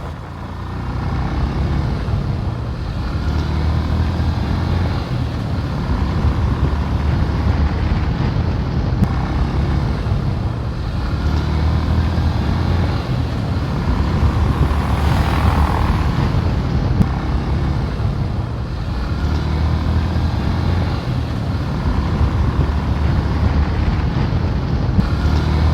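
A motorcycle riding along a rough road: a steady engine and road rumble that swells and eases every few seconds.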